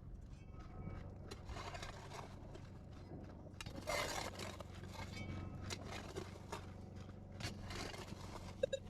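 Faint, irregular scraping and light knocks of digging in dirt and rock, over a steady low hum.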